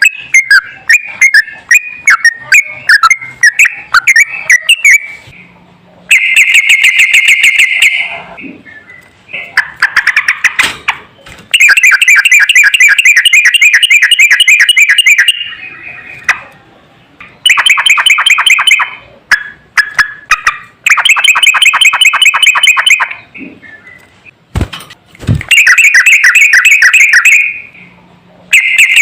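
Songbird song recording: loud, fast chattering trills repeated in bursts of one to four seconds with short gaps, after a few seconds of varied chirps. Two brief low thumps come a little before the last trill.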